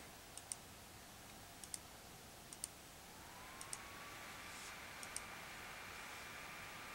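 Faint sharp clicks, mostly in quick pairs, from a device being clicked through while searching for a comment. About three seconds in, a faint steady whine slides in and holds.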